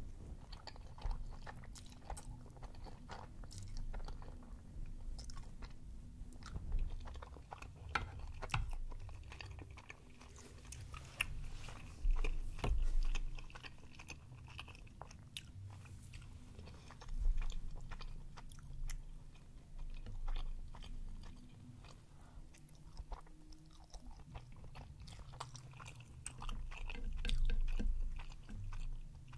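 Close-miked chewing of a mouthful of chewy tteokbokki rice cakes in a cheesy sauce: many wet mouth clicks and smacks, louder a few times.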